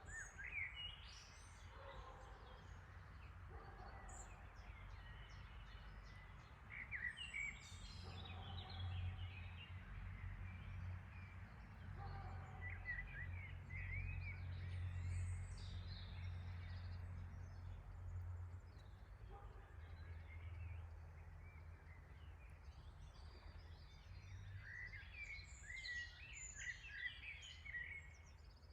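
Wild birds chirping and singing in scattered short calls, busiest near the end, over a steady low background rumble that swells in the middle.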